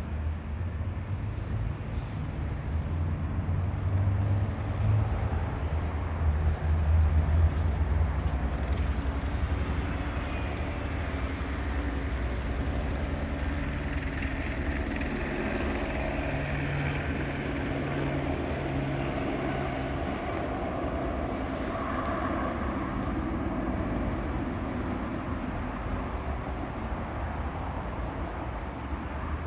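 Low, continuous rumble of engine noise, louder for a few seconds near the start and then steady.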